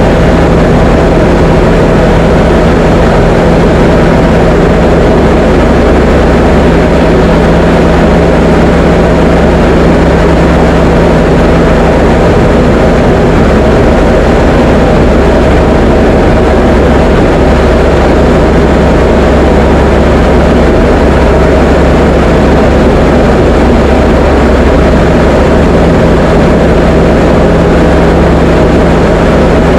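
Diamond DA20 light aircraft's piston engine and propeller running steadily, heard from inside the cockpit as a loud, unbroken drone with a steady low hum.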